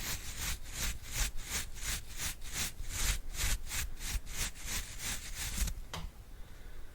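A brush swept rapidly back and forth over the microphone, brisk rhythmic swishes about three a second. The strokes stop near the end, followed by a single light tap.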